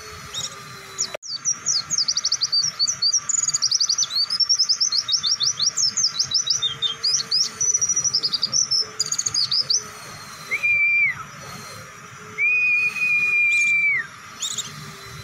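White-eye (pleci) singing a long, very fast run of high chirping notes, the rapid 'nembak panjang' song. It breaks off into two long, steady whistled notes, the second longer.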